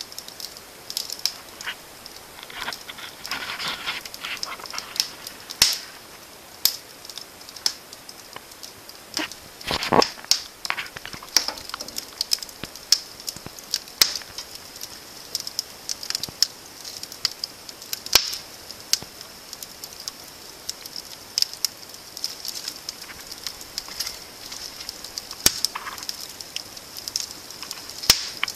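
Wood fire burning in an open fireplace, crackling with irregular sharp pops over a steady high hiss, with a louder burst of crackling about ten seconds in.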